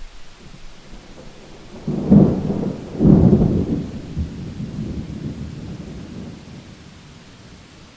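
Thunder in a rainstorm: two loud claps about a second apart, about two and three seconds in, then a rumble that slowly fades away, over steady rain.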